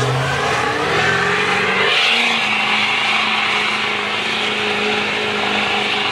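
Diesel engine of a Chevy mega mud truck running hard at high revs while driving through the mud bog. The engine note climbs slightly in the first two seconds, then holds steady.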